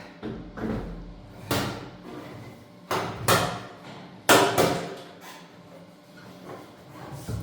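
A series of irregular knocks and bangs, about five sharp strikes with short ringing tails; the loudest comes a little past four seconds in.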